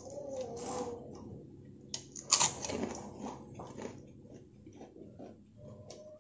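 A person chewing a mouthful of fried rice vermicelli, with small irregular clicks of a fork in a plastic bowl. One louder noise comes about two seconds in.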